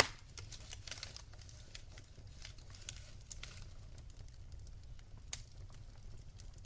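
Wood fire crackling in a fireplace: scattered small snaps and crackles, a loud pop right at the start and another sharp snap about five seconds in, over a low steady rumble.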